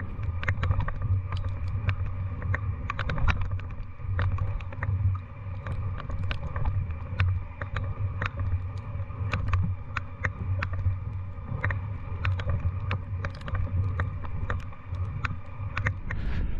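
Steady low drone of a distant aircraft passing overhead, with many irregular light ticks over it.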